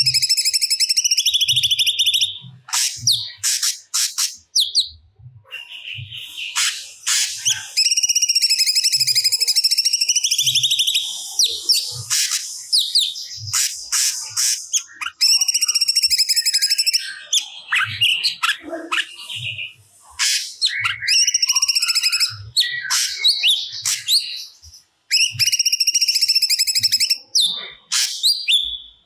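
Cucak cungkok singing loudly and continuously. Long, fast, trilled phrases of about two seconds each alternate with short, sharp notes, while soft low thumps come about once a second.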